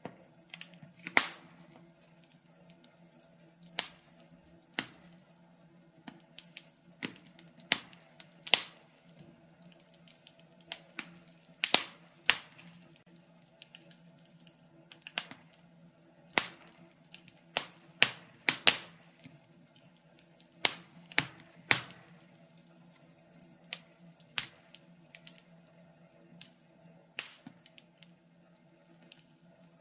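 Wood fire crackling in a fireplace: irregular sharp pops and snaps, one or two a second at uneven intervals, some much louder than others, over a faint steady low hum.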